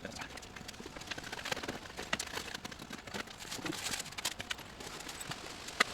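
Irregular knocks and clicks of hand tools and dirt in post-hole digging work, several a second and uneven.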